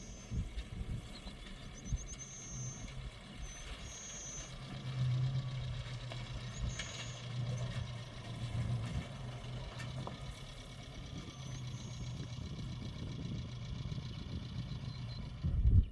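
A motor engine running steadily as a low hum, with short high bird chirps over it; the sound cuts off suddenly near the end.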